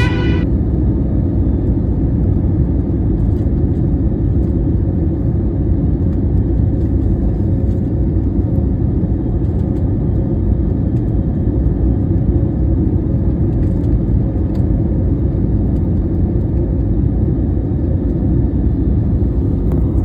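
A steady, loud low rumble with a faint whir above it, even throughout.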